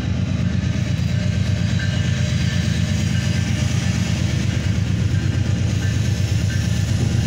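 Canadian Pacific freight train approaching and running onto a grade crossing, a steady low rumble.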